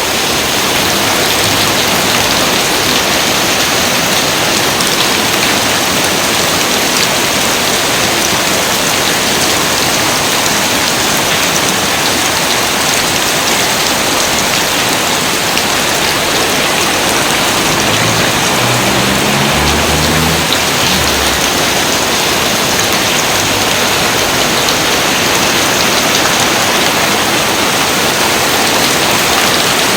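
Steady, dense rainfall, an even unbroken hiss of many drops.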